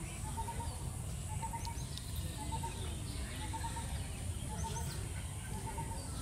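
A bird calling steadily in short repeated notes, about one a second, with faint high chirps of other birds, over a steady low rumble.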